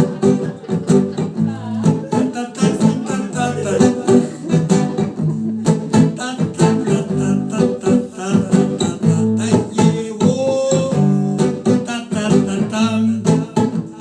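Rock band playing an instrumental passage of a song, led by strummed guitar over sustained low bass notes.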